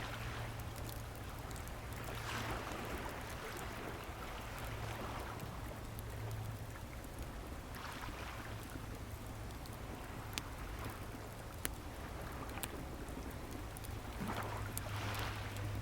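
Waves washing onto the shore, swelling and fading every few seconds, over a steady low rumble of surf. A bonfire crackles, with a few sharp pops around the middle.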